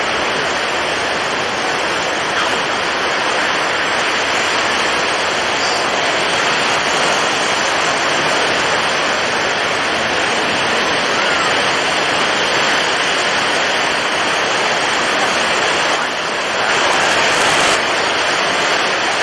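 Storm at sea: strong wind and heavy waves making a loud, steady rushing noise. Near the end it dips briefly, then swells louder for about two seconds.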